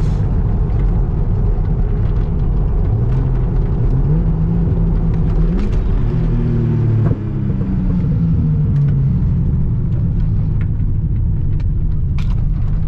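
Nissan Stagea's engine driving steadily, with the engine note rising in pitch for a few seconds under acceleration. A brief drop in loudness about seven seconds in, typical of a gear change, is followed by the note falling slowly.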